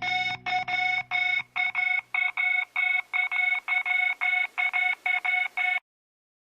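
Rapid electronic beeps of one unchanging pitch, about four a second, over the tail of organ-backed music that fades out beneath them. The beeps stop abruptly into silence near the end.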